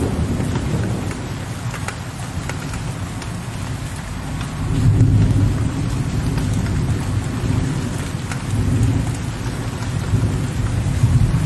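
Steady rain with individual drops tapping. Low, distant thunder rumbles beneath it, swelling about halfway through and again near the end.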